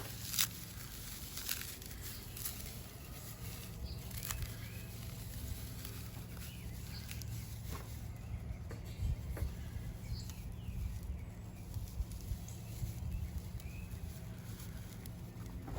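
Dry plant tinder, straw and broken-off plant tops, being handled and crushed by hand: scattered crackles and snaps over a steady low rumble, with a few faint bird chirps.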